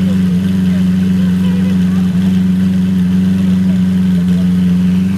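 Lamborghini Aventador's 6.5-litre V12 idling steadily.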